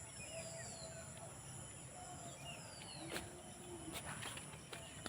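Rural outdoor ambience: small birds calling, with short falling whistles every couple of seconds and scattered chirps, over a steady high-pitched insect drone.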